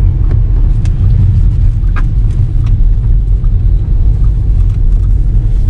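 Steady low rumble of a car driving slowly, heard from inside the car, with a few faint ticks.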